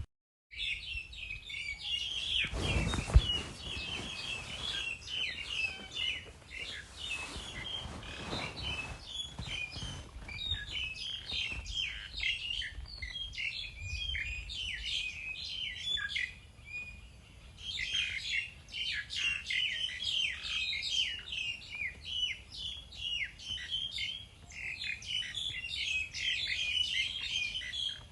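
A flock of small birds chirping, with many short calls overlapping in a continuous chatter and a brief lull about two-thirds of the way through. A few low thumps sound in the first ten seconds.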